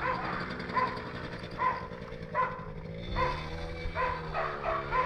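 A dog barking repeatedly, about seven barks evenly spaced under a second apart, over a steadily running ATV motor whose pitch dips and rises again in the second half.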